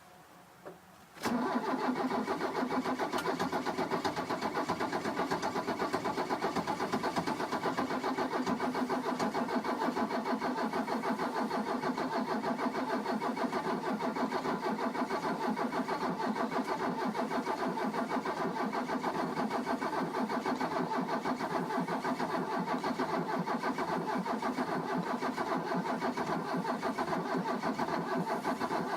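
Diesel engine cold-starting: it catches abruptly about a second in and settles into a steady, rough idle.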